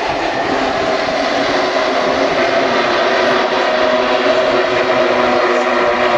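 A field of MotoGP bikes' 1000 cc four-cylinder racing engines running together at high revs: a loud, dense drone made of several steady pitches, growing slightly louder.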